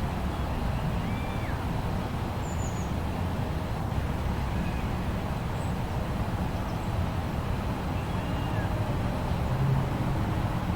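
Steady low rumble of snowstorm wind, with a few faint high bird chirps scattered through it.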